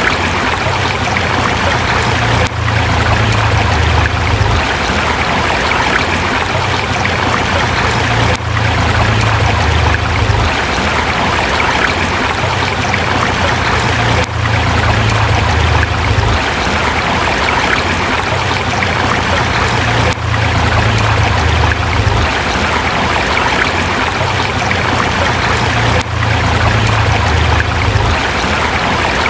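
Forest river flowing over rocks: a steady rush of running water, with a slight dip in level about every six seconds.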